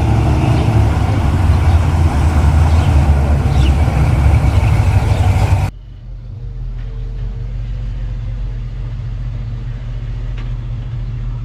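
A motor vehicle's engine running, a loud steady low rumble that cuts off abruptly about halfway through to a quieter, duller steady hum.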